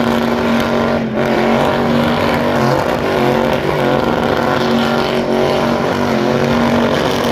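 A car engine held at high revs during a burnout, its pitch nearly steady with brief dips about a second in and around five seconds, over the hiss of spinning tyres.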